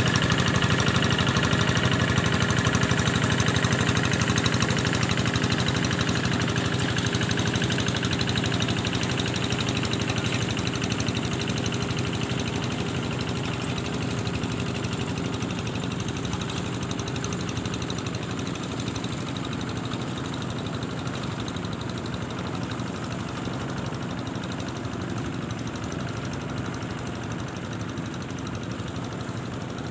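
An engine running steadily, slowly growing fainter.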